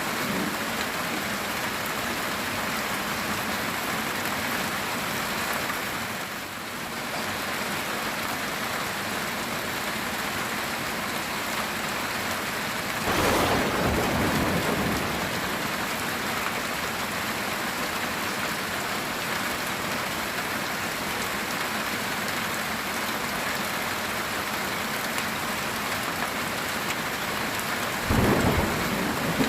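Heavy rain drumming steadily on a metal tin roof, with two claps of thunder: one about halfway through and one near the end.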